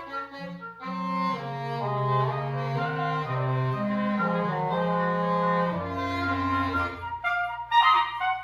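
Wind quintet playing classical chamber music. Short detached notes give way about a second in to long sustained chords across several voices, and brisk short notes return near the end.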